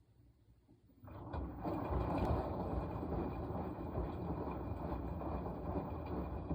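Washing machine drum turning during the wash cycle, starting abruptly about a second in with a steady churning of wet laundry and water and easing off about five seconds later.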